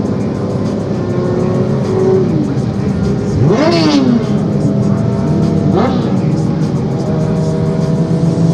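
Motorcycle engines revving hard twice, with rising whines about three and a half seconds and six seconds in, over a steady drone of highway traffic.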